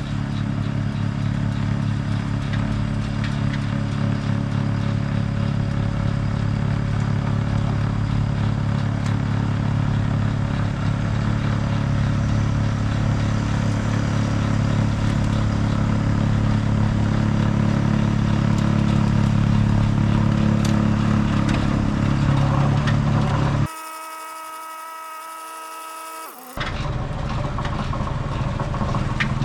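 Deutz 5120G tractor's diesel engine running steadily with its snowblower. About 24 seconds in, it gives way for about three seconds to a quieter, steady hum, then comes back.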